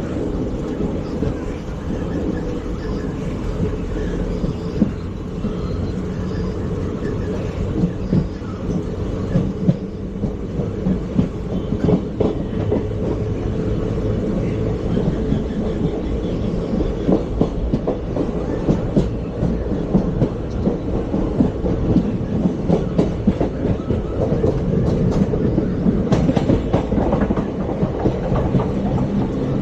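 ICF passenger coach running at speed: a steady rumble of wheels on rail, with frequent irregular clicks and knocks from the wheels passing over rail joints, growing busier after about ten seconds.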